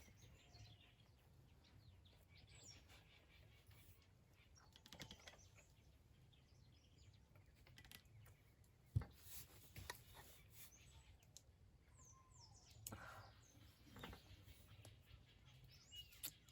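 Quiet outdoor ambience with faint, scattered bird chirps and a few sharp clicks, one about halfway through.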